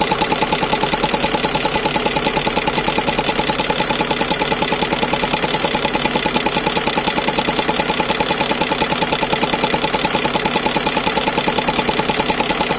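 Toyota 5VZ-FE V6 engine idling warm with a rapid, even ticking clatter. The owner suspects an air leak after the throttle, and the ticking was traced to a hose that had come off a valve on the engine.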